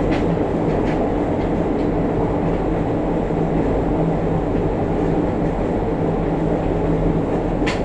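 Running noise of a JR Kyushu 303-series electric train, heard from the floor above a motored bogie: a steady rolling rumble with a constant low hum from the traction motor, on a car whose motor the recordist describes as growling abnormally with heavy vibration. A light click near the end.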